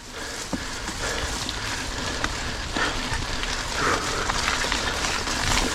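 Rain falling with a steady hiss, slowly growing louder, with scattered clicks and rattles from a mountain bike rolling over the wet trail.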